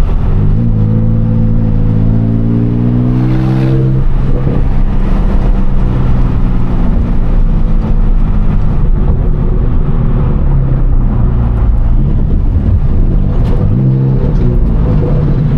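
Car engine accelerating hard, its pitch rising for about three seconds before a break, then running steadier, with another rise near the end.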